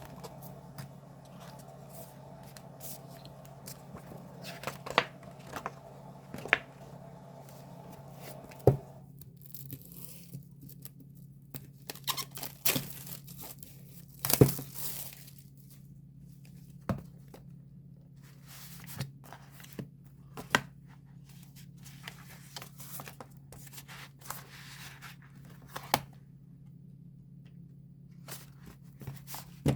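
Album packaging being unwrapped and handled: tearing and crinkling of wrapping with scattered sharp taps and clicks, loudest about halfway through, over a steady low hum.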